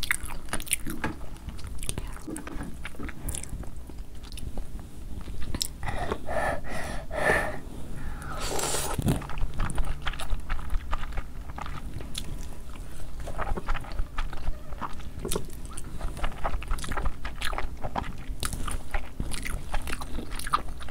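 Close-miked chewing of spicy black bean noodles with cheese: wet mouth sounds and frequent small clicks, with a louder slurp or burst about nine seconds in.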